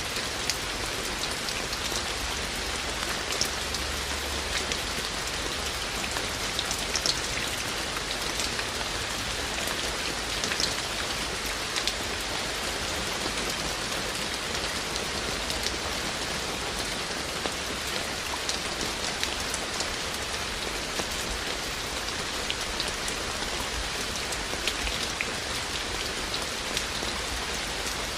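Steady rain falling, with many small sharp drip ticks scattered through it.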